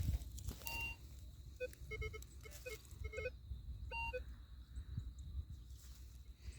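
Nokta The Legend metal detector giving short beeps at several different pitches, in clusters about two and three seconds in and again near four seconds, over a low rumble.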